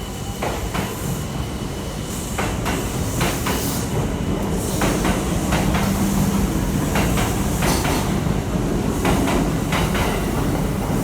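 Electric train moving along the platform track, wheels clacking irregularly over rail joints and points over a steady low rumble that grows louder.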